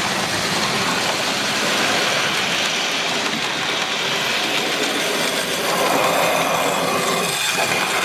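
Model class N2 tank locomotive running with a train of loaded wagons: a steady whirr of the motor with wheels rolling along the track.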